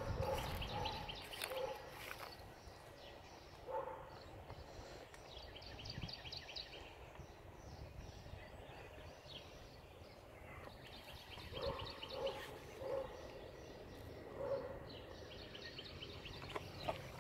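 Birds calling: several quick chirping trills and a few short lower calls over faint background noise.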